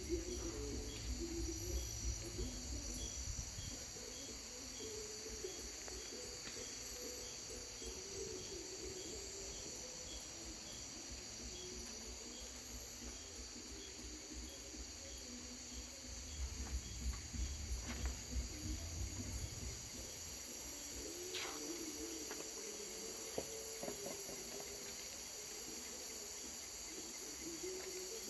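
Crickets and other night insects calling: a steady, high-pitched trill with a regular chirp about twice a second through the first part, over a low rumble.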